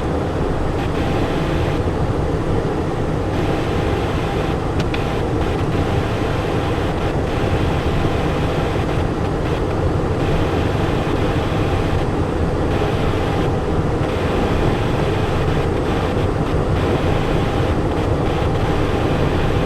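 Steady cockpit noise of a Cessna Citation Encore on final approach: airflow and its twin turbofan engines running, an even rushing sound that holds constant.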